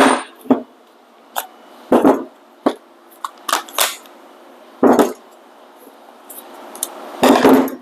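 Metal tools clinking and clattering as they are handled: about nine separate knocks and rattles, a few of them longer, near two seconds, five seconds and the end.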